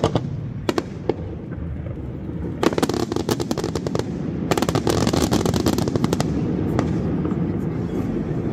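Fireworks heard from a distance: a few sharp single bangs in the first second, then two spells of rapid crackling pops about two and a half and four and a half seconds in, over a steady low rumble.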